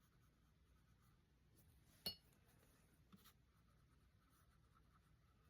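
Near silence with faint paintbrush strokes on canvas, and one light clink with a short ring about two seconds in.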